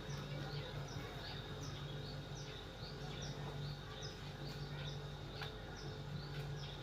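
A bird chirping over and over, about two short high chirps a second, over a low steady hum.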